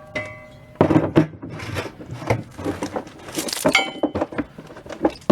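Metal tools clinking and knocking against metal parts as bolts are tightened, a string of sharp clinks, two of which ring on briefly.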